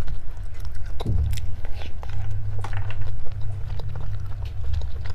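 Close-miked eating sounds: chewing and biting, with scattered crisp clicks and crunches over a steady low hum.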